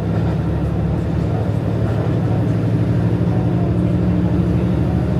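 KiHa 150 diesel railcar running steadily on the line, with a constant engine hum and rail and running noise.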